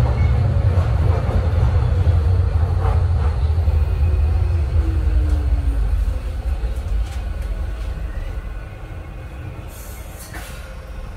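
Docklands Light Railway train running along the track, heard from inside at the front: a steady low rumble of wheels on rails with a few sharp clicks and a brief falling whine in the middle. The rumble eases off after about six seconds.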